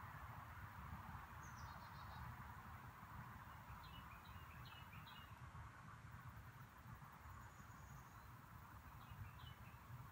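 Quiet outdoor ambience with a low steady rumble, and a small bird chirping faintly in short clusters of quick high notes, three times.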